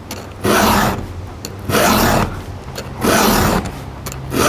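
Chainsaw file rasping across a chain's cutter tooth in four even push strokes, about one every 1.3 seconds. The file chatters on the dull, dinged tooth before it starts to cut smoothly.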